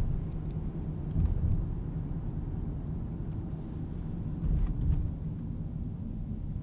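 Car driving on town streets: a steady low rumble of engine and tyre noise, swelling briefly about a second in and again around four and a half seconds.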